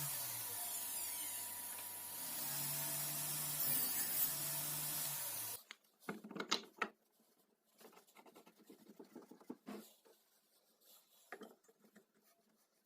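A power tool running steadily, then cutting off abruptly about five and a half seconds in. After that come faint, scattered knocks and clicks of wood and tools being handled.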